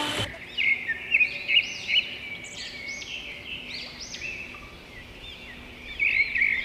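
Many small birds chirping, short high calls overlapping one another as in a bird chorus.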